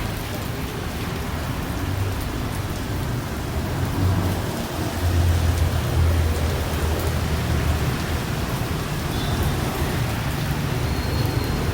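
Steady heavy rain falling, an even hiss of drops. A low rumble swells in the middle and eases off again.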